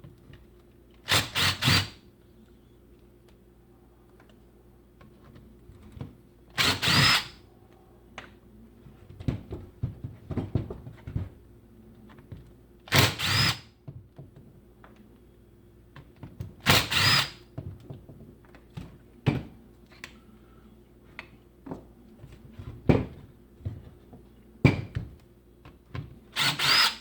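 Power drill with an Allen bit running in five short bursts of about a second each, spinning out the Allen bolts that hold a Milwaukee Sawzall's housing together. Light clicks and knocks of parts being handled fall between the bursts.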